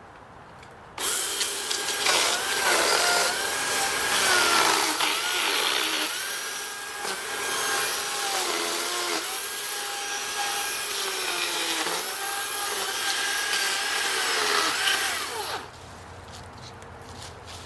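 DeWalt cordless electric chainsaw cutting wood, starting suddenly about a second in and stopping about two seconds before the end. Its whine dips in pitch several times as the chain bites into the wood and rises again as it frees.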